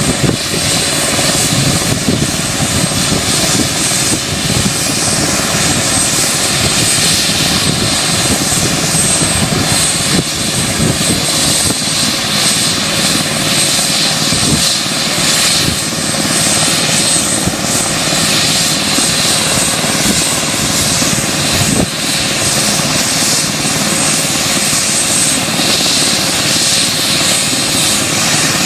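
Medical helicopter's engines and rotor running steadily and loudly, with a steady high-pitched whine over the rotor noise.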